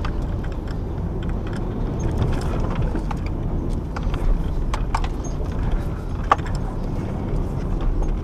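Toyota Tacoma running at low speed off-road, a steady low rumble with scattered sharp clicks and rattles, the loudest about six seconds in.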